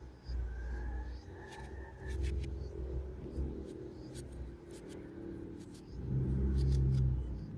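Short, crisp clicks and crunches of a knife cutting through firm, crunchy mango, scattered irregularly over a low rumble that swells up several times and is loudest near the end.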